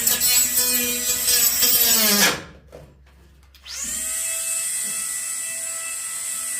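A hand-held electric power tool running, its motor whine wavering in pitch as it works. It stops a little over two seconds in, then starts again a second and a half later and runs at a steady speed.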